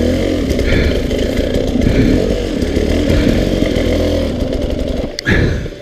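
Dirt bike engine running loud and hard, its pitch wavering with the throttle, then stopping suddenly near the end.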